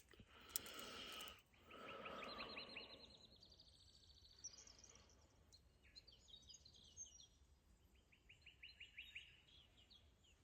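Faint birdsong: several quick trills of high, rapidly repeated notes, with soft rustling in the first few seconds.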